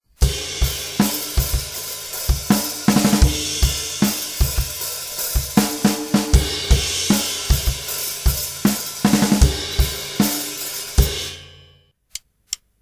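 Rock drum kit playing a busy pattern of bass drum, snare and cymbals, which fades away near the end. A few sharp, isolated clicks follow in the gap.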